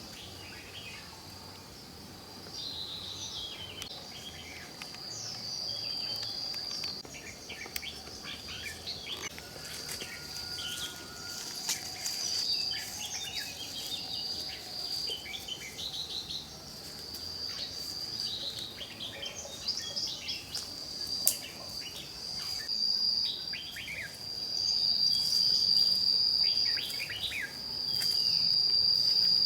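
Forest ambience: a high, steady insect trill that swells and fades, loudest near the end, with birds chirping and calling throughout.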